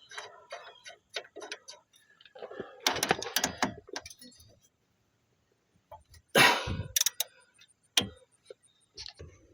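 Irregular metallic clicks, clinks and knocks of hand tools and parts during strut work on a car, with a louder clatter about six and a half seconds in and a quiet stretch just before it.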